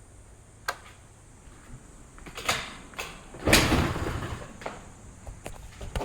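A few sharp clicks and knocks, then a louder scraping rush about three and a half seconds in that fades over about a second.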